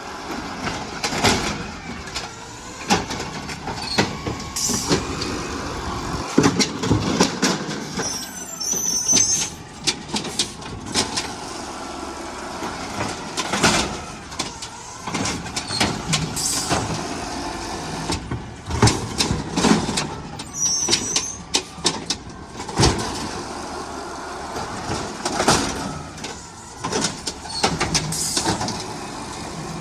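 Garbage truck at work: repeated bangs and clanks over the running engine and hydraulics, with two short air hisses, one about a third of the way through and one about two thirds of the way through.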